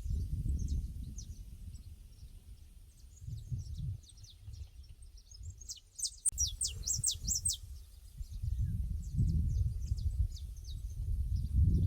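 Pasture ambience: small birds chirping throughout, with a run of louder, quick falling chirps a little past the middle. Underneath is a low rumble that swells and fades like wind gusting on the microphone.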